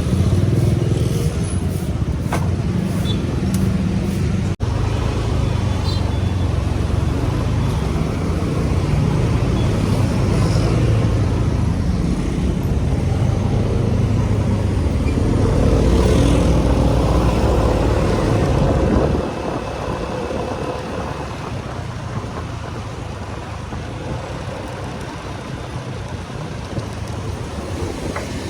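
Motorcycle riding in city traffic: steady engine note and road noise heard from the rider's position. The low rumble drops and quietens about two-thirds of the way through, with a momentary break near the start.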